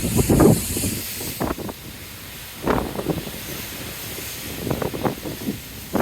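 Wind buffeting the microphone in irregular gusts, over a steady hiss of wind and sea.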